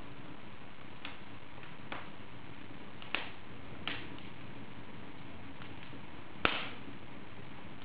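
Wood fire burning in an open fireplace: a steady hiss with irregular sharp crackles and pops, the loudest pop about six and a half seconds in.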